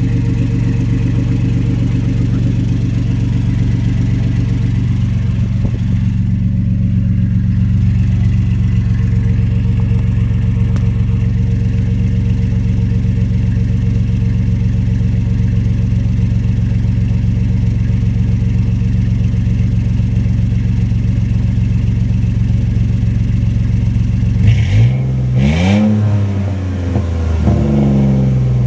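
2007 Dodge Dakota engine running through a homemade glass-pack and straight-piped exhaust, idling steadily, then revved up and back down twice near the end.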